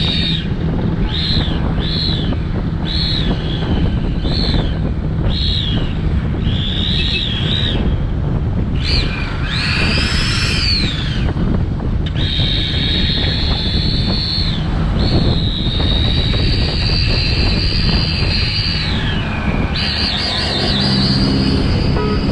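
Motorcycle riding along a road: a steady engine and road rumble with wind buffeting the helmet-mounted microphone. Over it runs a high whistling whine that rises and falls in short swells about once a second, then sweeps, holds steady for several seconds, dips in pitch and returns.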